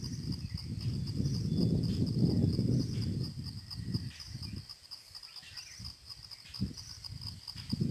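A steady, high-pitched insect chorus of crickets or similar insects, trilling without a break. Under it there is a low rumble in the first few seconds, then a few scattered low thumps.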